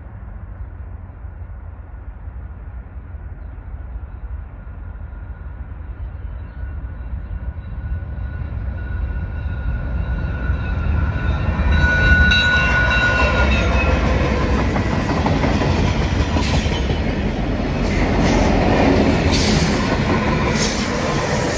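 Freight train led by a twelve-unit lashup of diesel locomotives approaching and passing: a low engine rumble that grows steadily louder over the first half, with sharp clicks of wheels over the rails in the second half.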